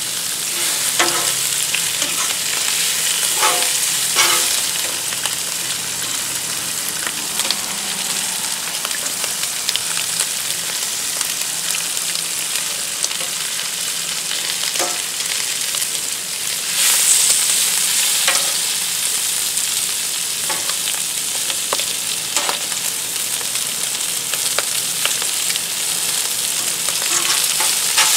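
Bacon and shredded cabbage sizzling on a hot Blackstone flat-top griddle, a steady hiss with scattered clicks and scrapes from metal tongs and a spatula turning the food. The sizzle gets louder a little past halfway through.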